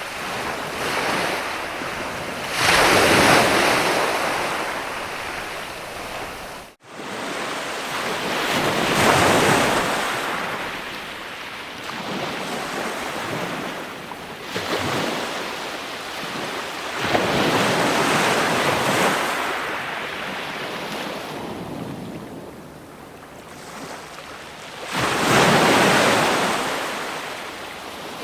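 Ocean waves breaking and washing ashore: a swell of surf rises and falls every several seconds, with four big surges and quieter wash between. The sound cuts out for a moment about seven seconds in.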